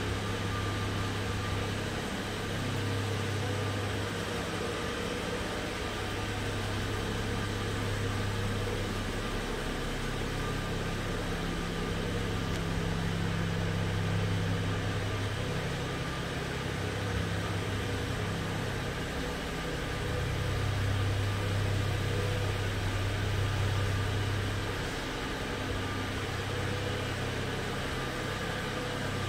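BMW 435 Gran Coupe's straight-six engine idling steadily, a low even hum that swells and fades slightly over the seconds.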